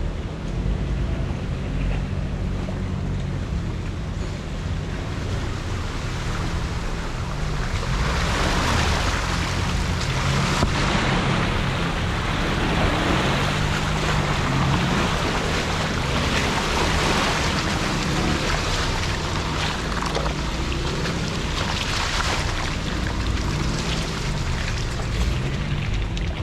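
Jeep Wrangler engine running at low, shifting revs while driving. A rushing noise rises over it from about eight seconds in.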